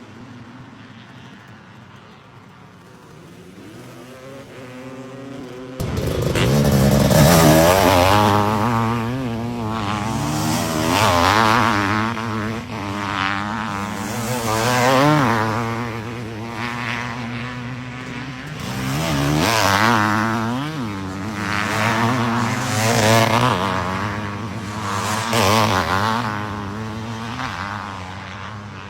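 Motocross dirt bike engines revving hard, rising and falling as the bikes race. They grow louder over the first few seconds and come in fully about six seconds in.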